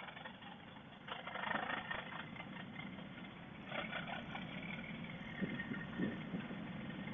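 Motorcycle engines running at low road speed, a steady rumble with a few irregular swells.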